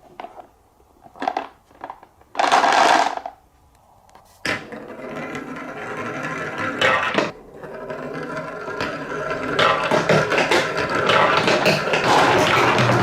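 Marbles clattering down a plastic TrixTrack wave-slope marble run. A few isolated clicks and a brief loud rush come first, then from about four seconds in there is a dense rattle of many balls rolling and tapping down the track, building louder toward the end.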